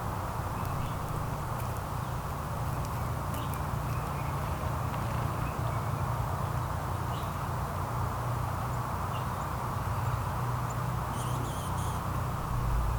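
Steady outdoor background hum with a low rumble, and faint, short bird chirps scattered through it.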